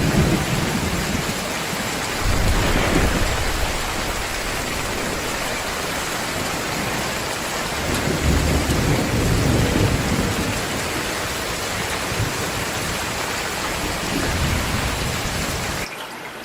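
Heavy rain pouring steadily, with rolls of thunder rumbling low several times. Near the end the loud rain cuts off suddenly, leaving a quieter sound of water.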